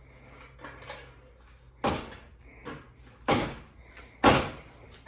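Floor jack clanking as it is worked under the car: four sharp metallic clunks about a second apart, each with a short ringing tail.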